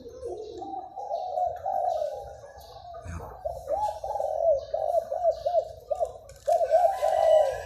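A caged dove cooing in a continuous run of rolling, warbling coos, the phrases quickening into rapid repeated loops in the second half. The keeper rates its voice as middling in pitch and not especially mellow.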